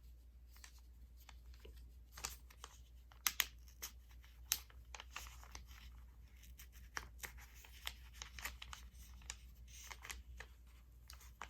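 Safety pins being opened and pushed through a paper pattern and T-shirt fabric: scattered sharp little clicks with short rustles of paper and cloth.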